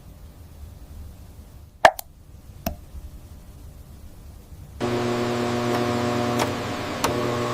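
A few sharp clicks, the first the loudest with a brief ring, over a faint low hum. About five seconds in, a louder, steady machine hum with a hiss starts suddenly, with an occasional tick.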